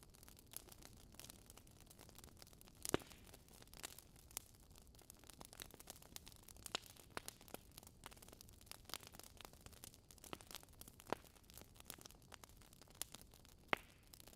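Wood fire burning in a fireplace: a soft hiss with scattered crackles and pops from the logs, a few sharper pops standing out, one about three seconds in and another near the end.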